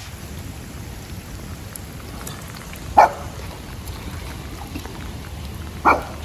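Rain falling steadily on wet pavement, with a small dog barking twice, two short barks about three seconds apart.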